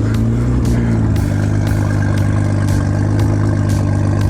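Car engine idling steadily at a low even pitch, with a faint regular tick about twice a second over it.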